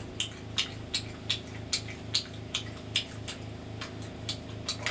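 Close-up chewing of crunchy glazed fried food: crisp crunches about two and a half times a second, evenly paced, over a faint steady low hum.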